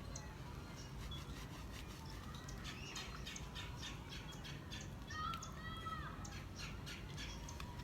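Birds squawking and calling in a quick run of short calls, with a few longer drawn-out calls about five seconds in, over a steady low background noise.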